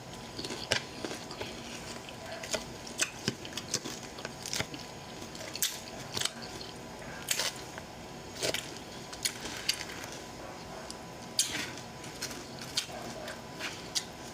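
A person chewing and biting food close to the microphone, with many short, irregular crunchy clicks and mouth sounds.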